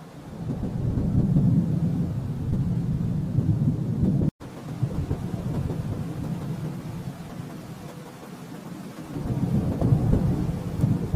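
Thunder rumbling low and long, swelling in at the start, easing off in the middle and building again near the end. The sound cuts out completely for a split second just after four seconds.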